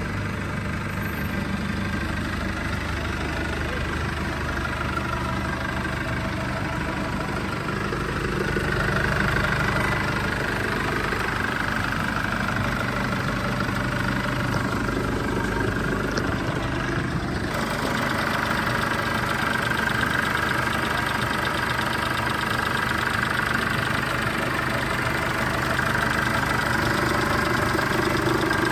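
Chevrolet S10's 2.8-litre four-cylinder turbo-diesel engine idling steadily. About 17 seconds in, its higher tones suddenly come through louder.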